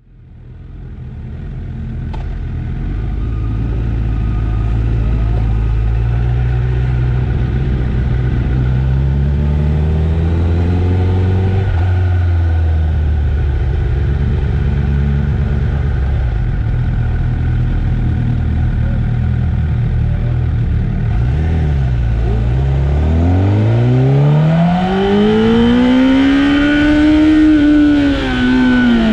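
Honda CBR1000RR Fireblade's inline-four engine, fading in at low, fairly steady revs with a few gentle rises, then revving up hard in one long climb about three quarters of the way through before easing off near the end.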